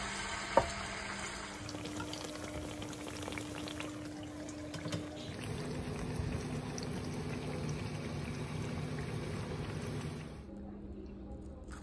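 Bacalaíto batter frying in a pan of hot oil, sizzling steadily, with one sharp knock about half a second in. The sizzle drops away near the end.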